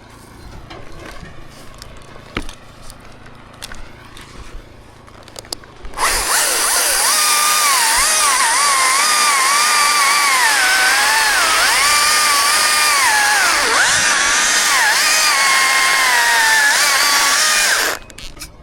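Chainsaw cutting wood for about twelve seconds, with its pitch dipping and recovering again and again as the chain bites under load, then stopping abruptly. Before it starts, only faint clicks and knocks.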